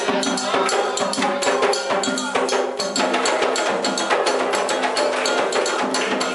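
Candomblé ritual music: fast, dense hand-drum and struck percussion rhythm, with steady held tones underneath.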